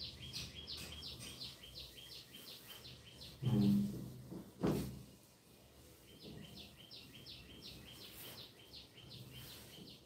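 A small bird chirping in a quick, even series of short high notes, about four a second, stopping for a few seconds in the middle and then starting again. About halfway through, a brief low voice sound and a sharp knock are louder than the chirps.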